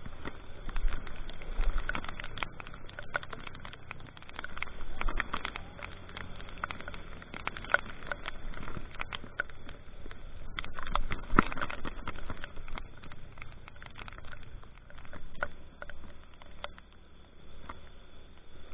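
Rain pattering, with many irregular sharp taps of drops over a steady hiss.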